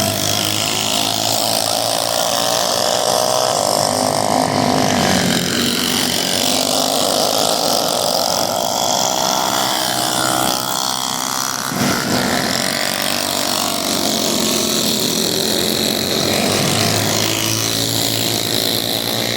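Several small minibike engines running hard in a race, their pitch rising and falling as the riders accelerate and back off.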